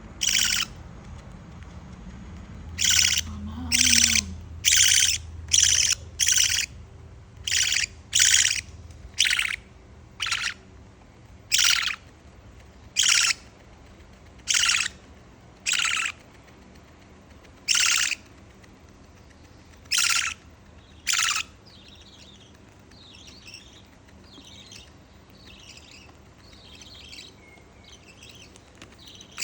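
Budgerigar chick giving loud, harsh begging squawks, about eighteen short calls spaced roughly a second apart, then softer chirping near the end. The calls are the hand-fed chick asking for food.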